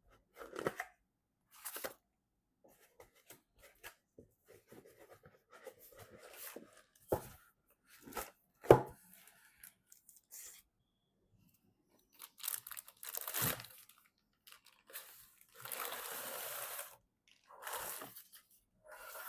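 Hands working on PC hardware and its packaging: scattered clicks and knocks, the sharpest about nine seconds in, between stretches of rustling, then a steady tearing or scraping sound lasting about a second and a half near the end.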